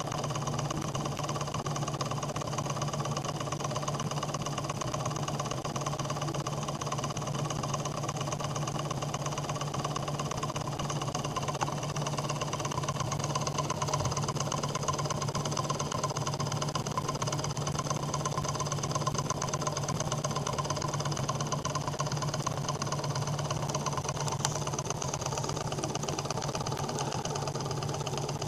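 Small home-built Ross-yoke Stirling engine running steadily at an even speed, a continuous mechanical clatter over a low hum.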